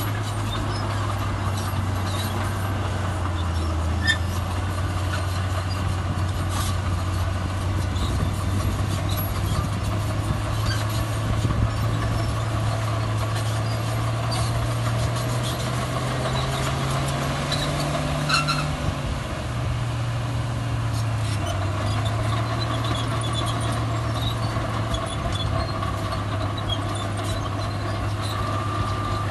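Heavy diesel earthmoving machinery running steadily under load. A little past halfway the engine revs up, then drops back, with a few sharp metallic clanks at the peak.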